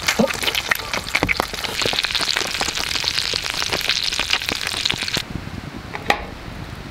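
Pork belly wrapped round dango sizzling on an iron griddle over a campfire, the fat spitting and crackling. The sizzle cuts off about five seconds in, leaving a quieter background with one sharp crack near the end.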